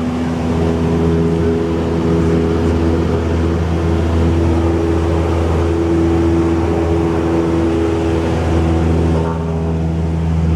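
Cessna 172's piston engine and propeller droning steadily in cruise. About nine seconds in, the upper hiss drops for a moment.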